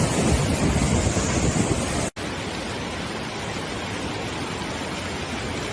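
Rushing floodwater, uneven and gusty with wind buffeting the microphone, cut off abruptly about two seconds in and followed by a steadier, even rush of water.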